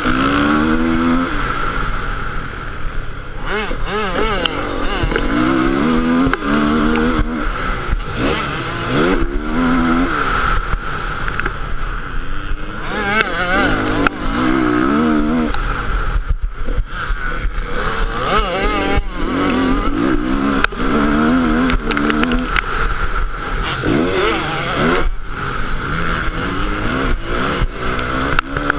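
Motocross motorcycle engine revving up and dropping off over and over, its pitch climbing and falling many times as the throttle is worked, with frequent knocks and buffeting over it.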